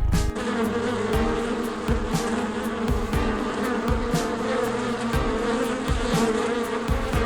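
Steady insect buzzing, with faint ticks scattered through it.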